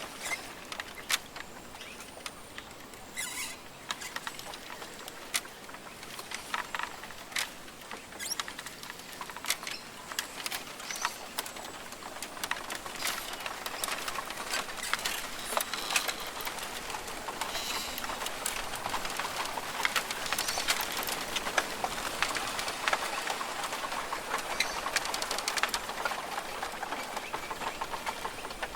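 Rainforest ambience: a steady hiss dotted with many sharp clicks and ticks, growing busier and a little louder from about halfway through.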